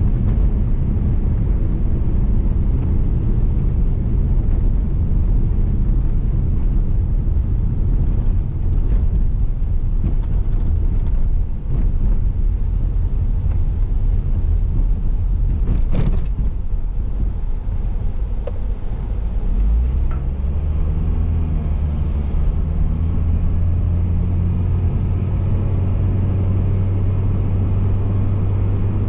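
A car's road noise heard from inside the cabin: a steady low rumble of tyres and engine, with one sharp click about halfway through. Later the rumble changes to a steadier low hum.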